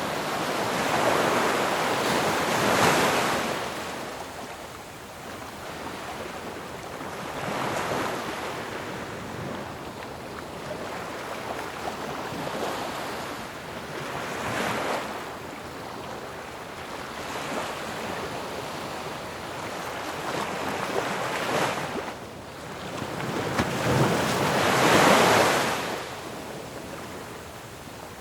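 Sea waves breaking on a shore: a steady wash of surf that swells and fades every few seconds as each wave comes in. The biggest waves crash near the start and again about 25 seconds in.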